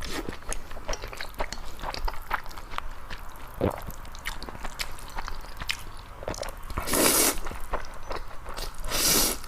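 Close-miked chewing and biting, with many small wet mouth clicks, and two short, louder rushes of noise about seven and nine seconds in.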